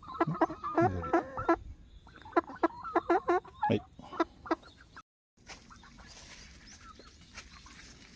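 Chicken clucking in two quick runs of short calls over the first four seconds. A sudden break about five seconds in is followed by faint background only.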